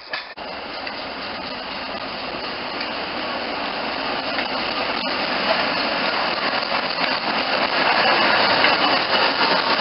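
Diesel locomotive engine running hard, a dense mechanical clatter growing steadily louder.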